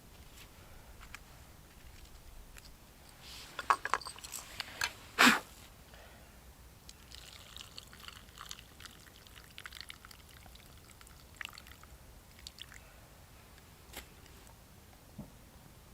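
Water being poured and dripping, with clinks and knocks of camp cookware being handled, as tea is made. The loudest sound is a brief burst about five seconds in; fainter pouring and ticking noises follow.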